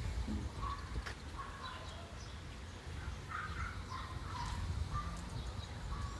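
Birds calling in short, scattered chirps over a steady low rumble of outdoor background noise.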